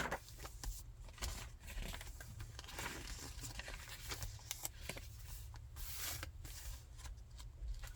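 Paper pages and inserts of a thick handmade junk journal being turned and handled: irregular soft rustling and crinkling with small taps, a sharper tap right at the start. A faint low hum runs underneath.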